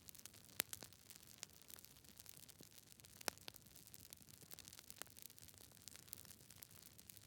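Campfire crackling softly: irregular sharp pops and snaps from the burning wood over a faint low rush of flame, with the two loudest pops about half a second in and just after three seconds.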